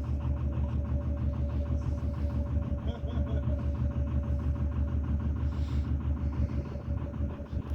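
Narrowboat's diesel engine running steadily under way, a low, even, rapid chugging beat with a steady hum over it.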